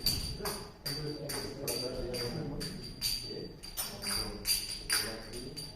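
Karatals, small brass hand cymbals, clinked together in irregular strikes about two to three a second, each leaving a bright metallic ring.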